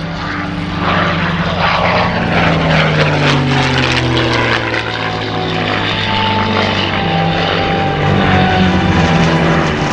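Propeller airplane engine running loudly, its pitch sliding down about three to five seconds in, then holding steady.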